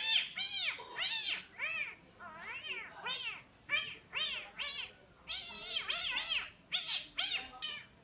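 A man imitating a cat, meowing over and over: about fifteen short meows in quick succession, each rising and then falling in pitch.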